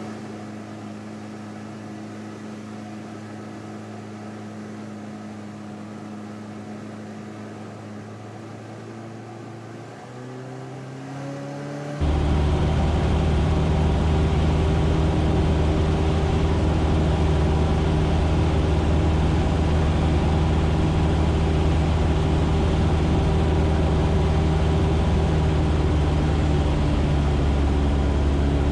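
Cessna 150's four-cylinder Continental O-200 engine and propeller: a steady low-power run, rising in pitch about ten seconds in, then a sudden jump to a much louder, steady full-power drone from about twelve seconds on.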